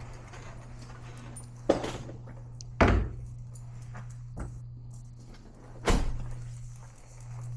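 Three sharp knocks or thumps, the loudest about three seconds in, with a few fainter clicks between them, over a steady low hum.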